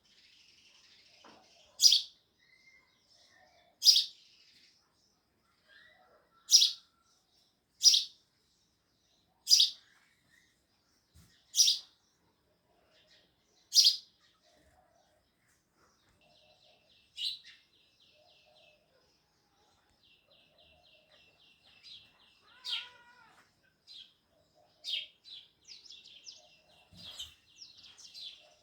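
House sparrows chirping: seven loud single chirps about two seconds apart, then quicker chattering trills and a busier run of chirps near the end.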